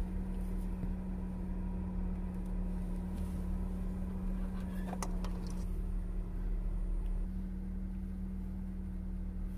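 Car engine running steadily with a constant low hum, heard from inside the cabin, with a single short click about halfway through.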